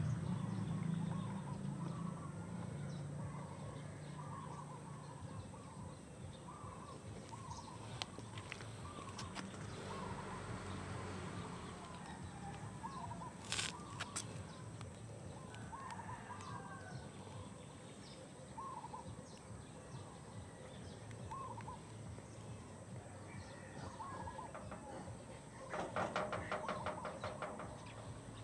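Birds calling faintly in the background: short chirping calls repeating every second or two. A sharp click comes about halfway through, and a brief rapid chatter near the end.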